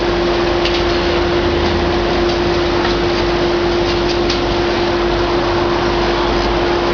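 Heavy demolition excavator running steadily, its engine and hydraulics giving a constant noise with a steady whine, and a few faint knocks.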